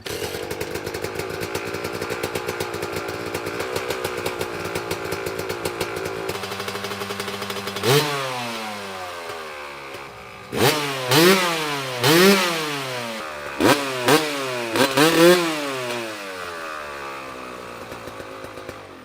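Yamaha YZ250 single-cylinder two-stroke dirt bike engine with an upgraded exhaust, idling with an even pulse, then revved once and, about halfway through, in a string of about seven quick throttle blips that each rise and fall in pitch, before dropping back to idle.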